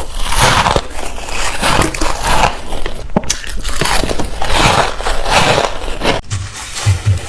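Close-miked bites into frozen ice, a run of loud crunching bites one after another.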